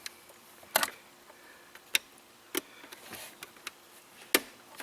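Four sharp clicks and knocks of hand tools and parts being handled, spaced irregularly, the last near the end the loudest.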